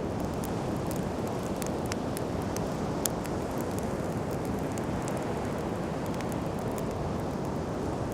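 Wood campfire crackling, with quick sharp pops scattered all through and one louder pop about three seconds in, over a steady low rush of wind and sea.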